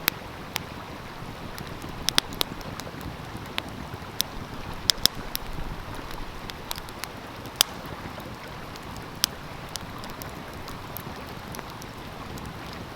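Wood fire crackling, with about a dozen sharp pops at irregular intervals, over the steady rush of a flowing stream.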